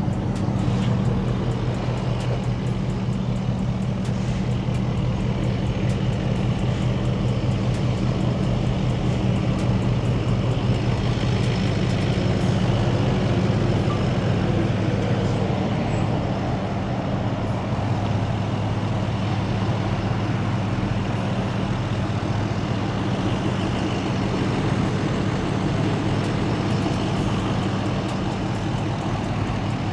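A motor vehicle's engine running steadily, a low even drone with no change in speed.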